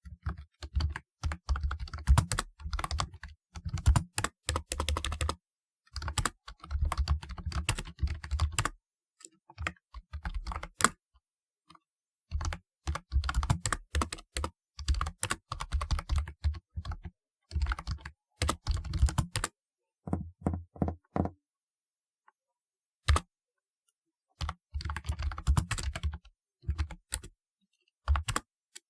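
Typing on a typewriter-style keyboard: quick runs of sharp key clicks in bursts of a few seconds, broken by short pauses. There is a longer pause of about two seconds near the two-thirds mark, with one lone keystroke in it.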